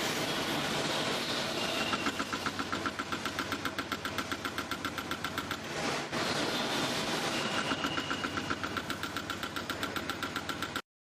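Homemade motor-driven broaching attachment mounted in a lathe, running with a rapid, even pulsing beat. The beat breaks off briefly about six seconds in and then resumes.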